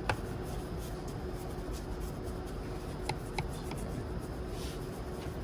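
Paintbrush bristles scrubbing and rubbing over engine-bay surfaces, with a few light clicks.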